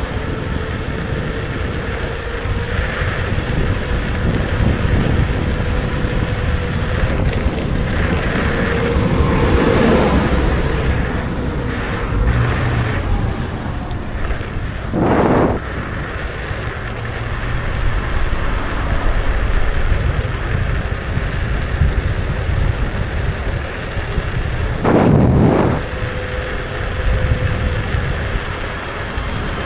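Wind buffeting the action camera's microphone, with low road rumble, as a Kukirin G2 electric scooter is ridden; a faint steady whine runs underneath. Two short, louder sounds come about halfway through and again near the end.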